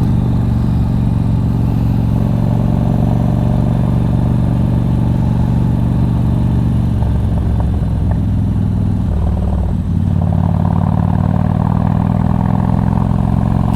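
2006 Harley-Davidson Street Glide's 88 cubic inch fuel-injected V-twin with a loud exhaust, running steadily under way, heard from the rider's helmet mic. Its note changes about seven seconds in and again just before ten seconds.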